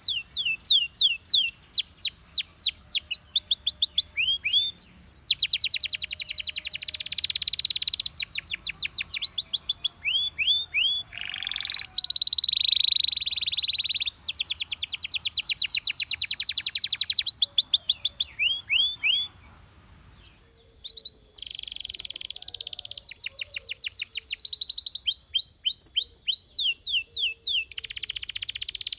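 Belgian canary singing: runs of quickly repeated sweeping notes alternating with fast buzzy trills. A loud held note comes a little under halfway through, and the song breaks off briefly about twenty seconds in before starting again.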